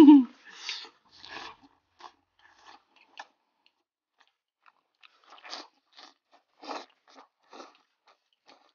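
A person biting into and chewing fried pork belly topped with chopped chili sauce, heard as irregular crunchy chews. The chewing pauses a little past a third of the way in, then resumes at about two chews a second. A short vocal sound right at the start is the loudest thing.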